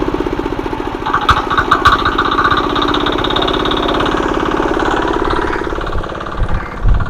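Small engine of a mini power tiller running steadily with a rapid even beat. A few sharp clicks come about a second in, and several low thumps come near the end as it eases a little.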